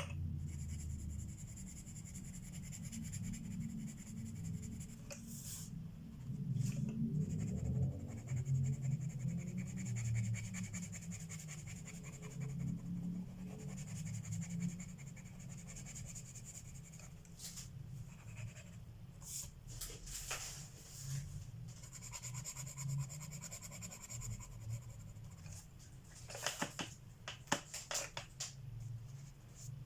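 Coloured pencil scratching across paper in runs of strokes, with several sharp clicks, most of them near the end.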